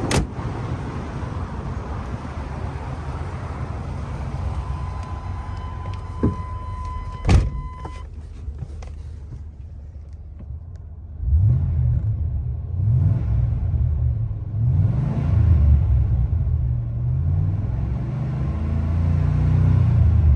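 1997 GMC Sierra 3500 pickup engine running, with a steady tone and two sharp knocks about six to seven seconds in. From about eleven seconds the engine is revved again and again, its pitch rising and falling.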